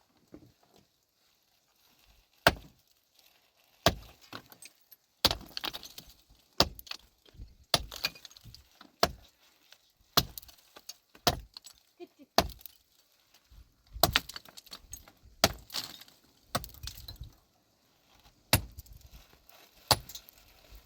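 Pickaxe striking rock again and again, sharp hits about every second or so with loose stones clattering after them. The strikes begin about two seconds in.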